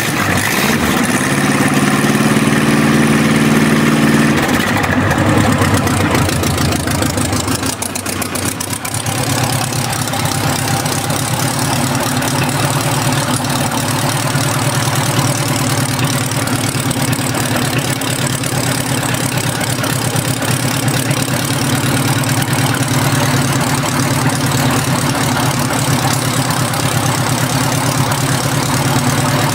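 Freshly rebuilt Mighty-Mite M422 jeep engine, an air-cooled V4, on its test run. It runs at a raised speed for the first few seconds, dips and wavers, then settles into a steady idle from about nine seconds in.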